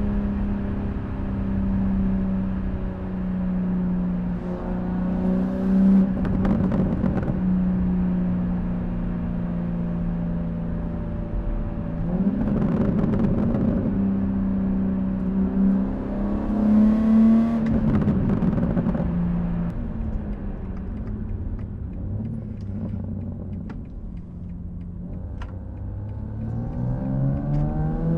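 BMW G80 M3 Competition's twin-turbo inline-six through its stock exhaust, running at a steady light-throttle cruise, with three brief louder rushes of noise along the way. Near the end the engine revs up, its pitch climbing as the car accelerates.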